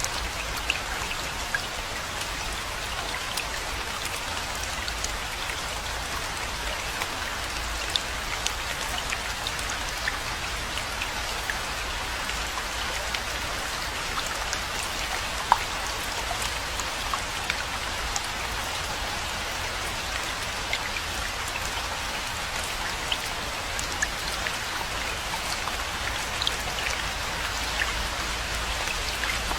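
Steady rainfall, a continuous hiss with many separate drop ticks scattered through it and a low rumble underneath.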